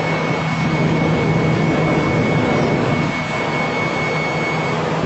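Shinkansen bullet train running: a steady rushing noise with a low hum and a thin high whine that stops near the end.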